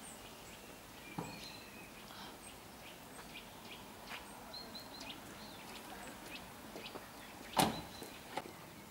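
Faint bird chirps over quiet outdoor background noise, with one sharp knock about three quarters of the way through.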